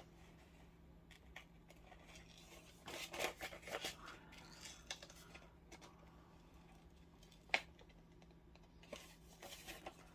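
Scissors snipping through thin copy paper in short runs of cuts, with one sharper snip about two-thirds of the way in. A faint steady low hum underneath.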